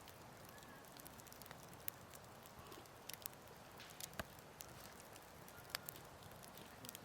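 Wood fire crackling quietly: sparse, irregular sharp pops and snaps over a faint steady hiss.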